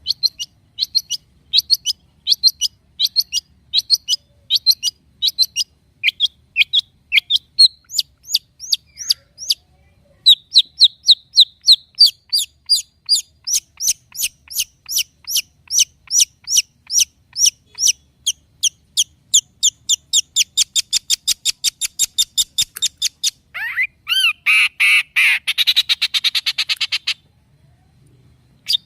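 Long-tailed shrike singing a long run of sharp, high, repeated chirps. The notes come about two a second, speed up to about four a second about ten seconds in, and change near the end into a harsh grating rattle that cuts off.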